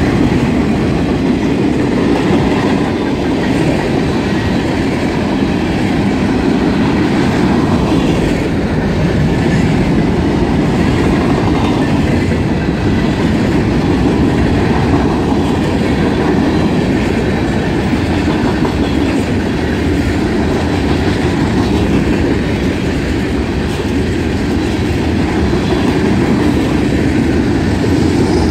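Freight cars of a mixed freight train (boxcars and hopper cars) rolling steadily past close by: a loud, even rumble of steel wheels on the rails.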